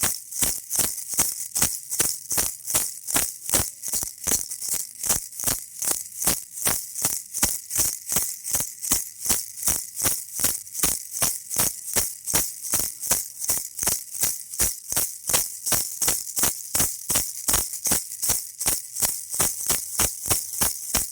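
Baby rattle toy shaken over and over in a steady, even rhythm, each shake a bright, crisp rattle of beads.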